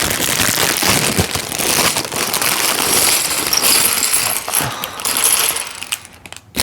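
Many small plastic Lego pieces clattering and rattling against each other and a hard surface, as a bag of bricks is emptied out and stirred by hand; the clatter dies down near the end.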